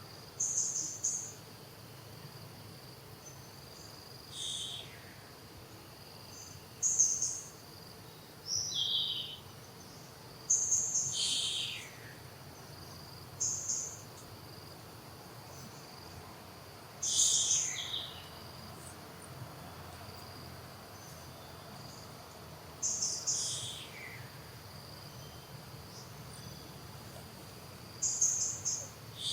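A steady high insect drone, broken every few seconds by short, loud, high-pitched calls, each ending in a falling slide.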